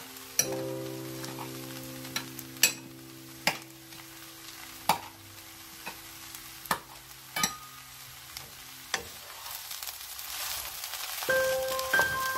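Rice and vegetables sizzling in a frying pan, with about ten sharp, irregular crackling pops. Soft background music with held notes plays over it, and a chime-like melody comes in near the end.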